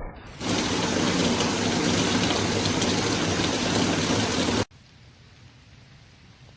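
Heavy rain pouring down in a loud, steady hiss. It cuts off abruptly about four and a half seconds in, and much quieter, lighter rain with a few faint drops follows.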